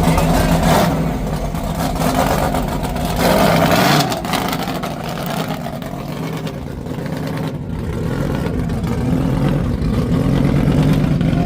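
Truck engine running loud at a truck pull, its pitch sagging and climbing again as the throttle is worked.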